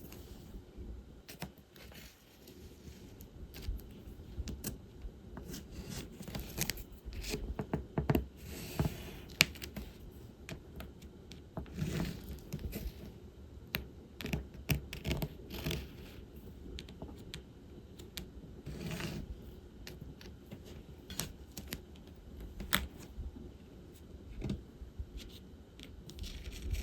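Diamond painting handwork: small clicks and taps of resin drills and the drill pen, with a few longer rattling or scraping rustles from the drills being handled.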